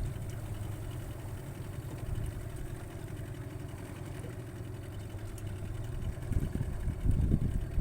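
A fishing boat's engine running steadily. Near the end there are a few louder, rough low rumbles.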